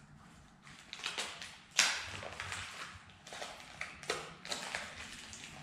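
Handling noises: a plastic spray bottle of trim cleaner being picked up and handled, with rustles and sharp knocks, the loudest about two seconds in and another about four seconds in.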